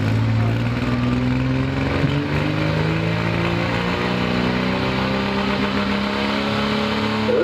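Pro Stock pulling truck's Dodge Cummins turbo-diesel engine under full load hauling the weight sled, its pitch climbing slowly and steadily as the revs build down the track.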